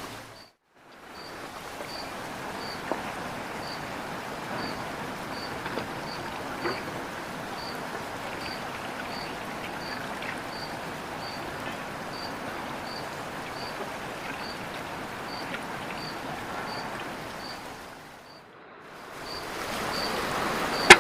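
Steady rush of a flowing river, with a faint high chirp repeating about twice a second above it. The sound cuts out briefly about half a second in and again near the end.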